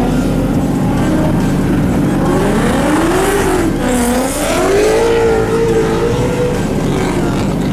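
Car engine revving, its pitch climbing and falling several times, then held high for a moment near the end.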